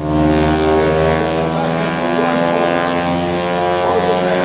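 An engine drones at a steady pitch.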